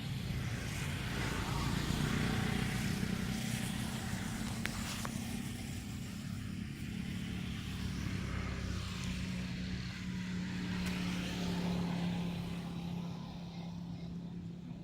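An engine running steadily with a low hum, growing a little louder twice.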